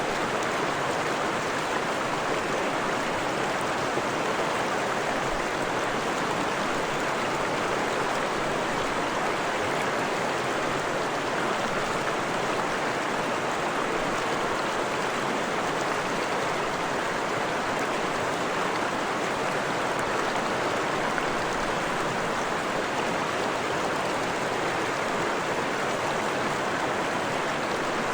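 Freshwater forest stream flowing steadily, an even rushing and babbling of water over stones.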